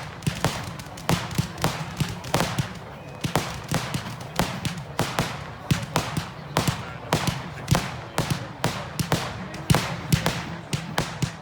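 Fireworks display: a rapid, irregular run of firework bangs, about two to three a second, each with a short echoing tail.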